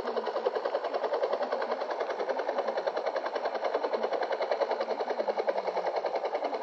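A steady, rapid rhythmic pulsing sound that keeps an even beat throughout.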